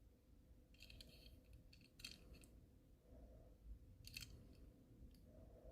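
Near silence with a faint steady hum, broken by a few soft, short clicks and rattles from a small die-cast toy truck being handled and turned over.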